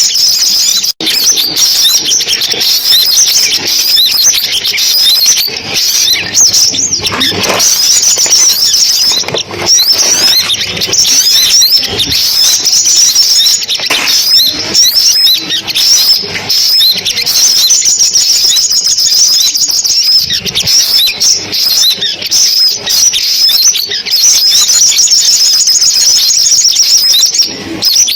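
Sunbirds calling and singing: a dense, unbroken run of rapid high-pitched chirps and trills, with a brief break about a second in.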